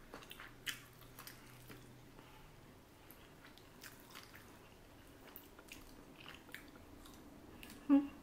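Quiet chewing and wet mouth sounds of people eating sushi, with faint scattered clicks. A short vocal sound comes near the end.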